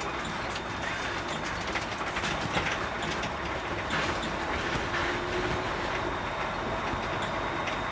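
Container truck on the move: steady engine and road noise with frequent rattles and knocks.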